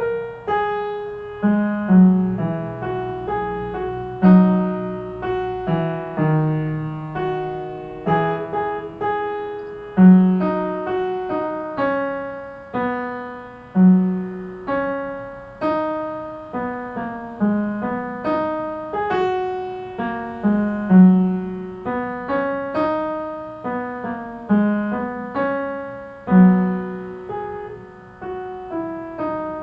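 Piano playing a slow melody with lower accompanying notes; each note is struck and left to fade, at an even pulse.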